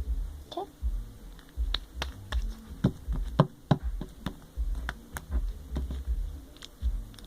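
Slime being kneaded and stretched by hand, giving irregular sharp clicks and pops, with low dull thumps of handling throughout.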